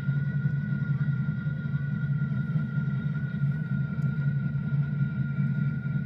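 An engine running steadily: a low, even rumble with a thin, steady whine above it.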